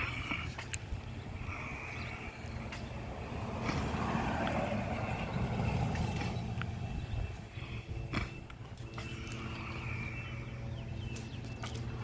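A steady low engine hum of a vehicle idling, with a louder swell of passing traffic in the middle and a few light clicks.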